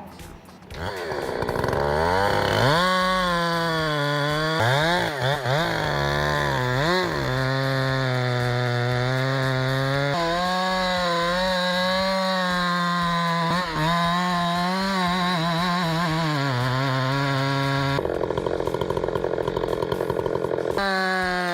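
Husqvarna 390 two-stroke chainsaw with a 32-inch bar, revved up and down a few times and then held at high revs, its pitch sagging briefly now and then and recovering, as under load in a cut; it sounds strong.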